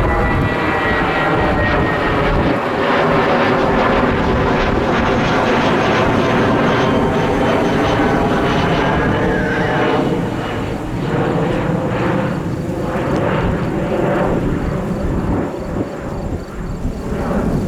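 Jet airliner's engines going by loudly, their whining tones falling in pitch as the aircraft passes. After about ten seconds the whine fades into a low, crackling jet rumble.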